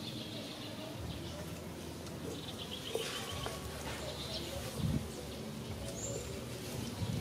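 Outdoor ambience with birds chirping: a quick run of chirps about three seconds in and a short high whistle near the end, over a steady low background hum.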